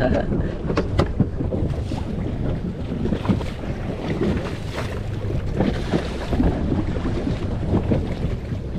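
Wind buffeting the microphone over sea water slapping around a small inflatable boat, with a few short knocks.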